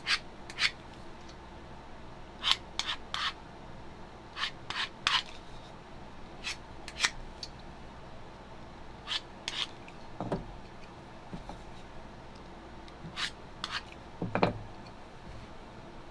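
Hand blade slicing through the cap material while cutting out panels: short, sharp cutting strokes, singly or in quick pairs, spaced irregularly. Two duller, lower sounds come about ten and about fourteen and a half seconds in.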